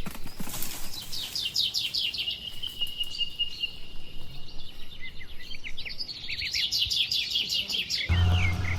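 Small birds chirping in rapid runs of short, high, downward-sweeping notes, with a steady high trill held for a couple of seconds midway. Near the end a low, steady sound starts suddenly beneath them.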